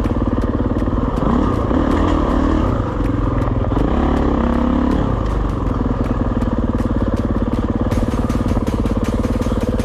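Kawasaki KX450X dirt bike's single-cylinder four-stroke engine running under way, revving up and back down twice in the first half and then holding a steady pitch.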